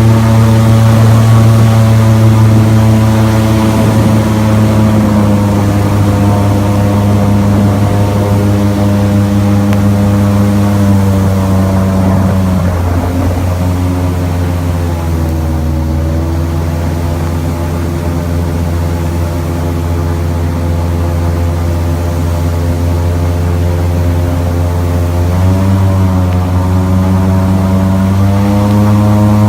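Airboat's engine and large air propeller running loud and steady. It throttles down to a lower pitch about twelve seconds in, then speeds back up about twenty-six seconds in.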